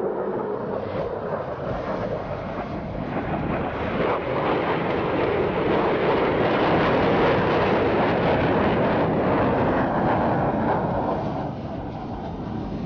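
Lockheed Martin F-22 Raptor's twin F119 turbofan engines passing by, a jet roar that builds to its loudest about seven seconds in and dies away near the end.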